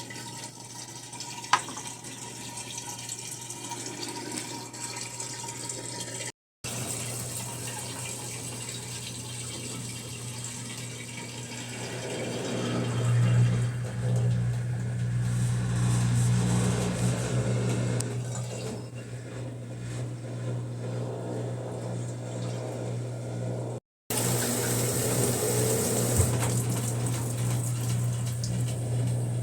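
Brastemp washing machine filling with water through its inlet valve: a steady rush of water with a steady hum that gets louder about halfway through. The sound drops out briefly twice.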